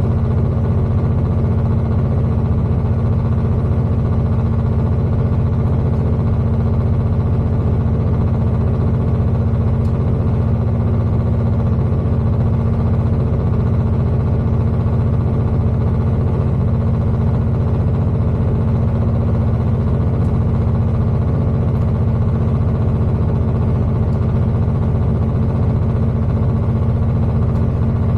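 Steady low drone inside a Class 221 diesel tilting train's carriage while it runs: the underfloor Cummins diesel engine's hum with a steady tone over it and running noise.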